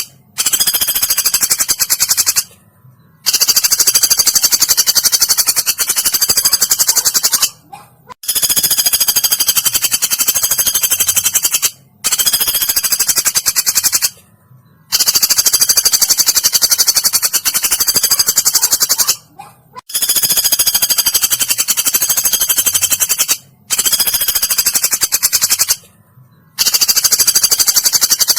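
Woodpecker calls played as a training recording: very rapid, high-pitched rattling trills in about eight bouts of two to four seconds each, with short pauses between them.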